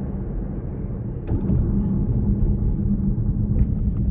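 Car interior noise while driving: a steady low rumble of tyres and engine with a faint hum, getting louder about a second in with a short click.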